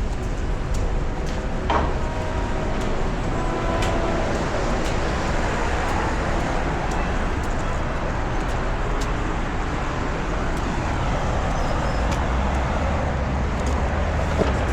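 City road traffic: a steady rumble of passing vehicles, with a faint whine held for a few seconds early on and scattered light clicks.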